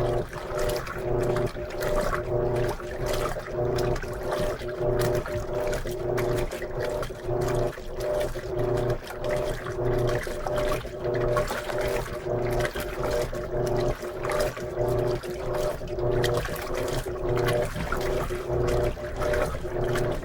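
Electrolux LM13Q top-load washing machine agitating a load of jeans in water: a steady motor hum with water churning, surging in a regular rhythm about once a second as the agitator swings back and forth.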